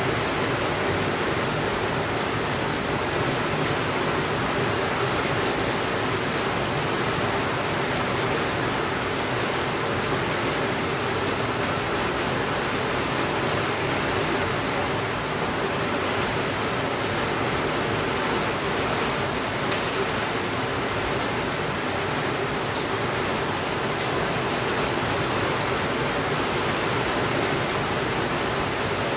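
Steady rainfall, an even unbroken hiss, with a few faint crackles from a fireplace, the clearest a single pop about twenty seconds in.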